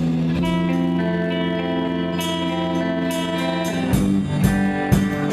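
Live country band playing an instrumental break: a held, guitar-led chord rings out, then several sharp hits come in near the end.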